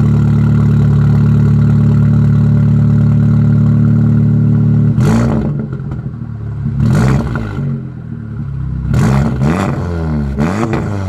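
Audi S3 8V's turbocharged 2.0-litre four-cylinder, tuned to Revo stage 2 with a Scorpion downpipe, idling steadily, then blipped about five times in quick rev bursts that rise and fall, starting about halfway through.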